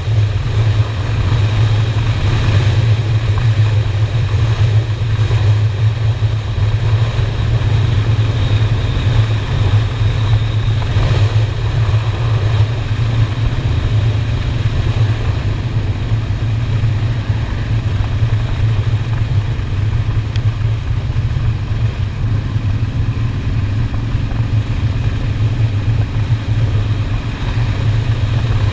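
Honda Shadow motorcycle's V-twin engine running at a steady cruise, with wind and road noise rushing over the helmet or handlebar camera.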